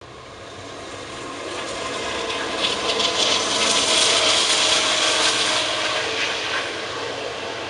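Freight train of diesel locomotives approaching and passing at speed, growing steadily louder to a peak about four seconds in. Double-stack container cars follow, rolling by with wheel clicks on the rails.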